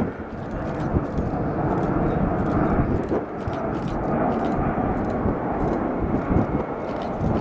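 Jet airliner engine noise: a steady rushing sound that grows louder over the first couple of seconds, then holds.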